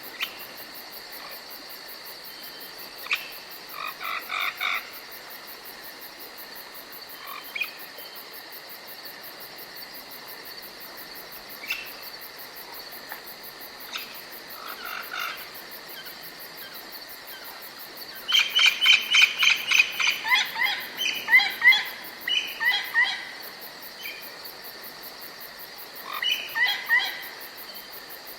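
Forest ambience: a steady high-pitched insect drone with birds calling in short bursts of rapid chirping notes. The loudest and longest run of calls comes about two-thirds of the way through, with a shorter one near the end.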